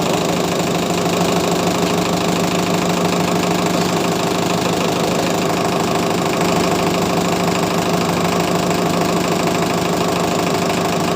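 ACE tractor's diesel engine running steadily at idle, with the clutch being tested after the clutch plate was opened up.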